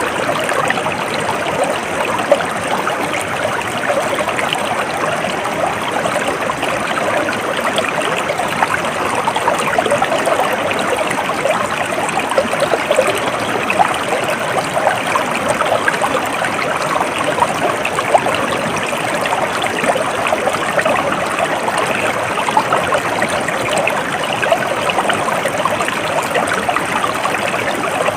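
Stream water flowing and babbling in a steady, even rush with fine splashing detail.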